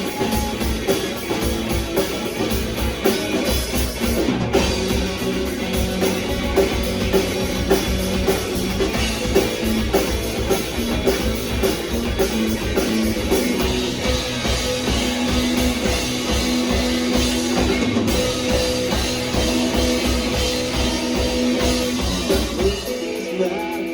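Rock band playing an instrumental passage on drum kit and electric guitars, with no singing. The drums drop out near the end.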